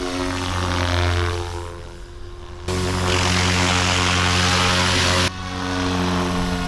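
GooSky RS4 400-size electric RC helicopter with a direct-drive brushless motor in flight: a steady buzzing hum of rotor and motor that swells and fades. About two and a half seconds in it jumps suddenly louder and hissier, then drops back just as suddenly a few seconds later.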